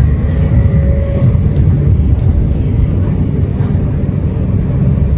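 Moving train running with a steady low rumble, and a faint steady whine early on.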